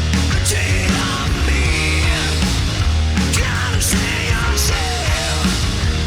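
Live rock band playing loud, heavy rock with electric guitar, bass and drums, with several cymbal crashes.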